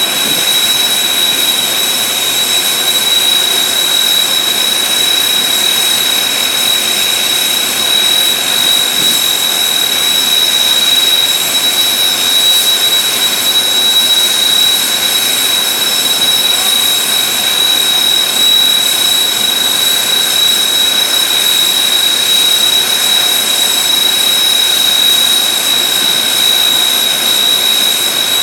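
Kawasaki T-4 jets' twin IHI F3 turbofan engines running steadily on the ground: a loud, even rush of jet noise with a steady high-pitched whine over it.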